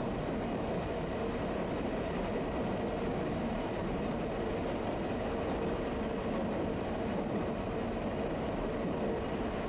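Tosaden streetcar running, heard from inside the tram: a steady rumble of motors and wheels on rail with a faint even hum, no sudden knocks or squeals.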